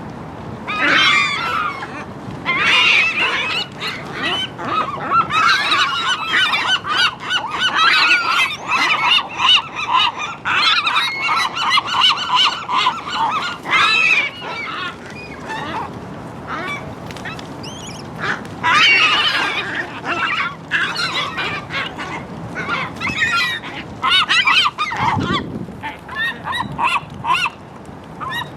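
A group of seagulls calling over one another in repeated loud bursts of squawking cries, densest in the first half, with shorter flurries later.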